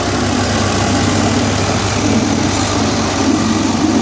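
Tractor engine running steadily and loud, a constant low drone with no change in speed.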